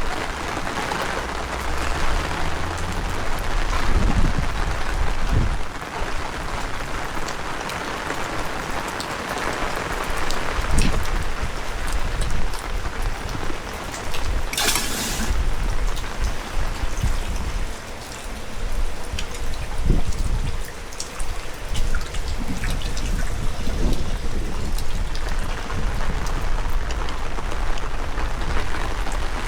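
Heavy rain falling steadily, with many small drop ticks, while gusts of strong wind rumble on the microphone. About halfway through there is a brief high hiss lasting under a second.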